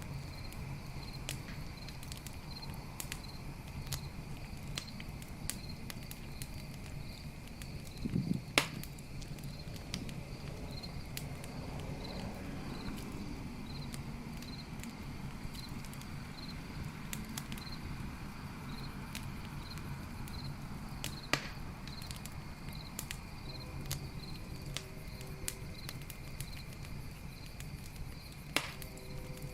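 Campfire crackling with scattered snaps and pops, a few louder ones standing out, the loudest about eight seconds in. Behind it, crickets chirp in a steady, even rhythm.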